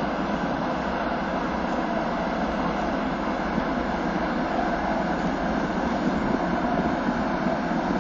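Car ferry's engines running as it gets under way, a steady rumbling drone with a constant rush of noise over it.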